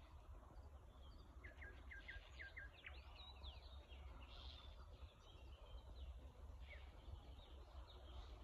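Faint outdoor birdsong: small birds chirping, with a quick run of short chirps and sweeping whistles about a second and a half in and a few scattered calls after, over a steady low rumble.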